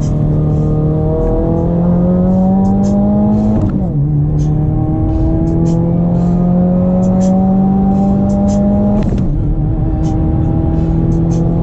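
Car engine pulling hard under acceleration, its pitch climbing steadily and dropping sharply at a gear change about four seconds in and again about nine seconds in.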